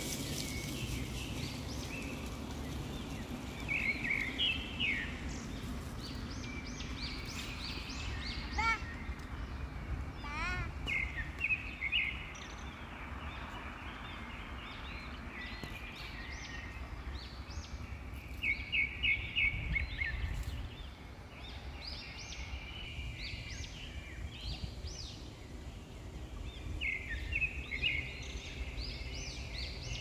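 Songbird chirps and song phrases: quick runs of repeated short notes, with a few swooping rising calls around a third of the way in. A steady low rumble runs underneath.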